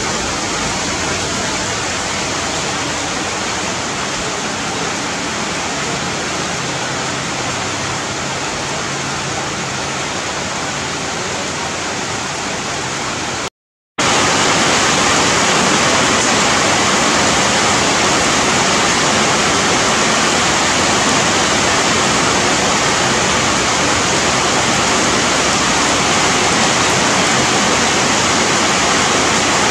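Steady heavy rain falling on forest leaves, an even hiss with no separate drops standing out. It cuts out for a split second about halfway through and comes back louder.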